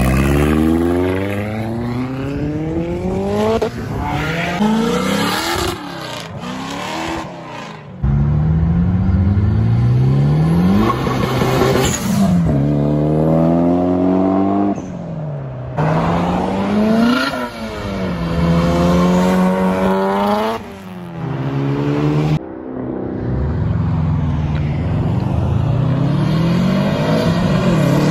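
Modified performance car engines accelerating hard, the pitch climbing steeply and dropping back at each gear change, several times over. The sound cuts abruptly about a third of the way in and again near the end as it switches to another car.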